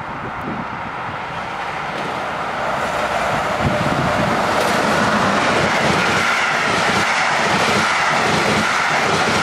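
MÁV class V63 'Gigant' electric locomotive hauling a passenger train as it approaches and passes close by. The sound grows louder over the first few seconds, then holds as the steady running noise of the coaches rolling past.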